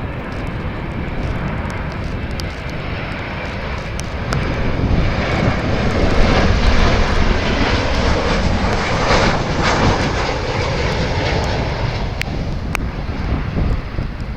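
Jet airliner engines passing close by, a loud rushing roar that swells to its peak about six to ten seconds in and then eases off.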